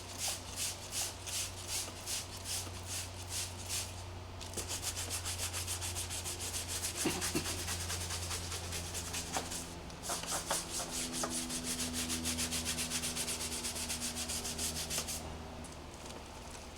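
Cloth rubbing back and forth over a car's paintwork in quick, even strokes, about two or three a second, pausing briefly partway through and stopping near the end. A steady low hum runs underneath.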